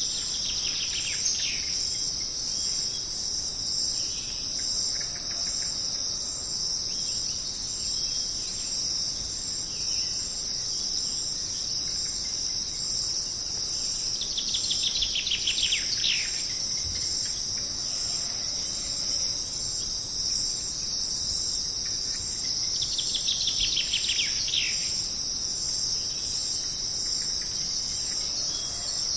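Jungle night ambience: a steady, high-pitched chorus of crickets and other insects. Three times, about a second in, midway and near the end, a rapid trill of quick pulses falls in pitch above the chorus.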